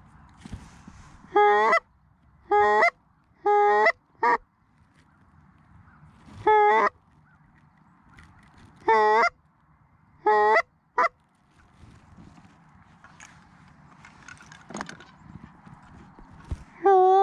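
Loud, close Canada goose honks: about nine short separate honks, some in quick pairs, with one near the end.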